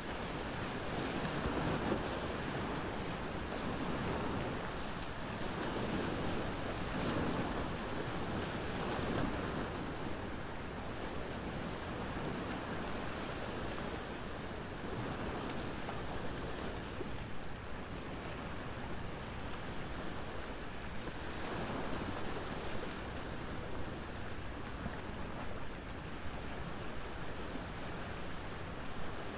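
Sea waves washing ashore in slow swells every few seconds, with a wood fire crackling in the mix.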